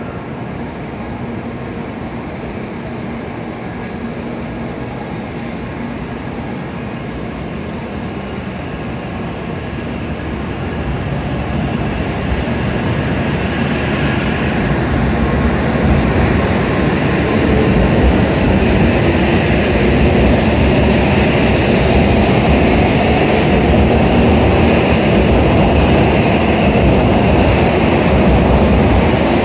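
N700A Shinkansen train pulling out of the station: its running noise grows steadily louder from about a third of the way in as it gathers speed, then holds at that level.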